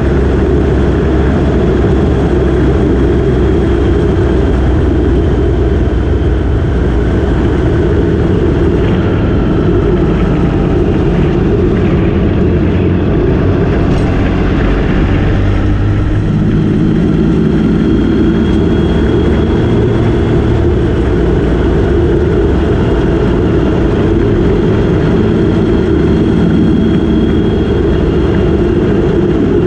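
Motorcycle engine running under way, with the engine note shifting a little in pitch with the throttle and a steady low rush of wind and road noise.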